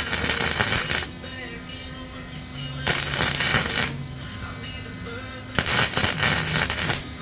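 Three harsh, roughly one-second bursts of metal being cut or ground, one about every three seconds, over steady background music.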